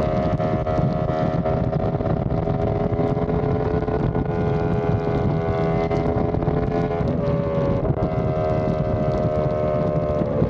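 Yamaha R1M's crossplane inline-four engine through an SC Project exhaust, running at steady revs while riding at speed, with wind rumbling on the microphone. The engine note dips briefly about seven seconds in and again near the end.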